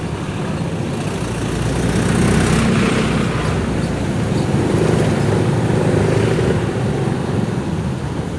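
Motorcycle engine running while riding, with road and traffic noise around it; the sound grows louder about two seconds in and eases off near the end.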